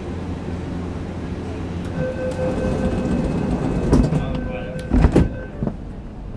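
Interior of an MTR CRRC Changchun electric train car: a steady low rumble with a held tone from about two seconds in to five and a half seconds in, and two sharp knocks, one about four seconds in and a louder one about five seconds in.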